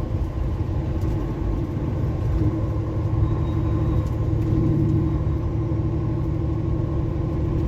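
Tractor-trailer truck cab while driving: the engine drones steadily under road and tire noise.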